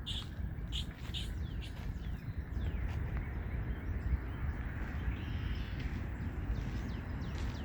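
Outdoor pond-side ambience: small birds chirping here and there over a steady low rumble of background noise.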